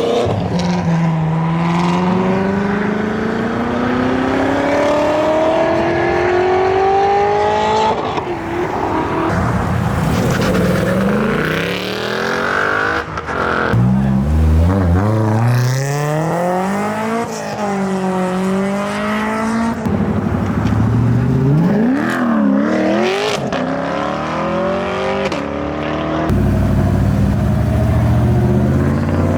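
Modified cars' engines revving and accelerating away one after another. There is one long rising pull over the first several seconds, then a string of quick revs that rise and drop in pitch.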